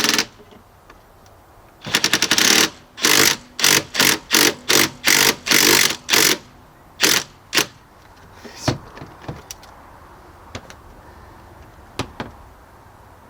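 Impact wrench hammering on a stuck bolt in a run of short trigger bursts, driving a 1/4-inch swivel socket that gives out under it. A few separate light metallic clicks follow near the end.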